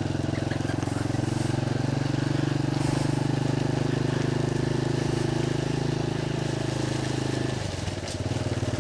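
Small motorcycle engine running steadily while riding. Near the end the engine note dips for a moment, then picks up again.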